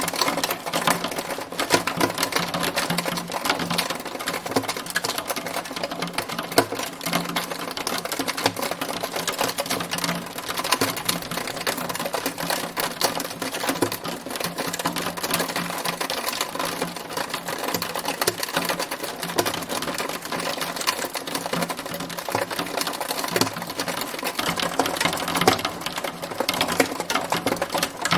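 Hailstones striking a hard surface in a dense, unbroken clatter of fine clicks that stays even throughout.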